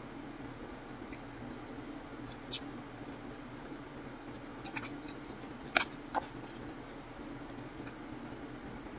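Close-up eating sounds: chewing a mouthful of pad thai noodles, with scattered small wet mouth clicks and smacks and a sharper click about six seconds in, over a steady low hum.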